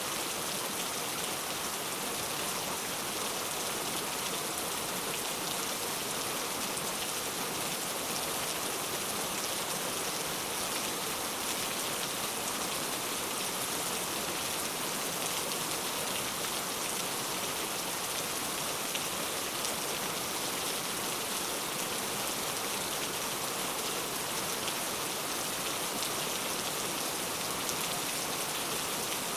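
Heavy rain falling steadily, an even hiss of many fine drops with no let-up or thunder.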